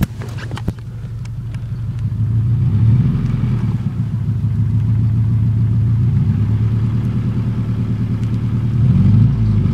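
1996 Subaru Legacy Outback's 2.5-litre flat-four engine running with a leaking exhaust, giving a loud, rough, low rumble that swells twice: about three seconds in and again near the end. The exhaust leak is getting worse.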